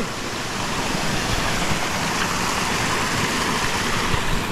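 Mountain river water flowing, a steady, even rush of water noise.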